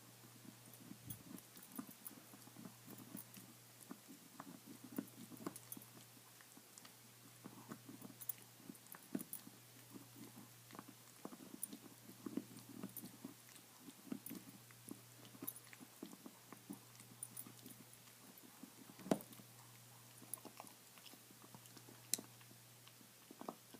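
Dog gnawing on a bone: irregular crunching and clicking of teeth on bone, with one sharper crack about two-thirds of the way in. A steady low hum runs underneath.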